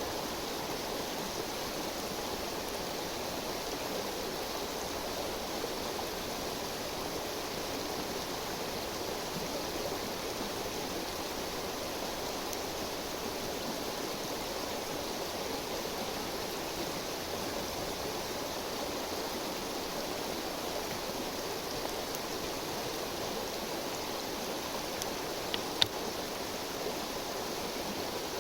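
A river or stream rushing steadily. About three seconds before the end, two sharp cracks, the second loud.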